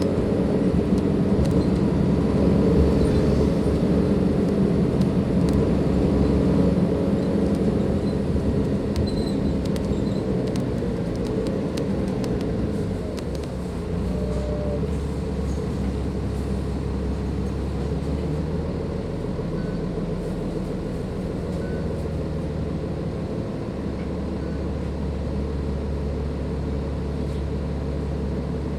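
Cummins ISLe diesel engine of a Dennis Enviro 500 double-decker bus running under load, easing off after about eight seconds and settling to a steady low hum from about fourteen seconds in.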